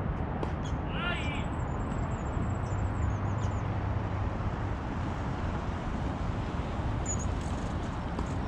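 Steady outdoor background rush with birds calling: a quick run of rising chirps about a second in, and thin high-pitched twittering over the first few seconds and again near the end.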